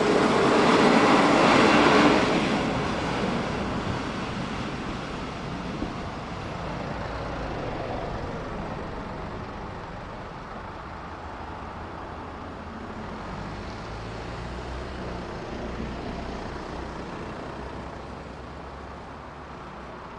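Passenger train running over a level crossing, loudest in the first two seconds, then its rumble fading slowly as it moves away.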